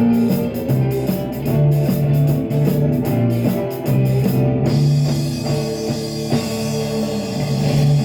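Live rock band playing with no vocals: electric guitar, bass and drum kit. The drums' steady beat stops about four and a half seconds in, and held guitar and bass chords ring on.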